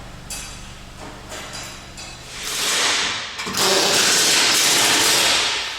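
Workshop noise: a low steady hum with a few knocks, then a loud rushing hiss in two long blasts starting about halfway through, the second lasting about two seconds.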